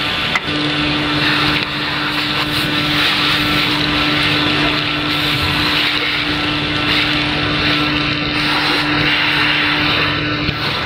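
Planet industrial vacuum cleaner running steadily under suction, a loud rushing noise with a steady low hum that sets in just after a brief click near the start.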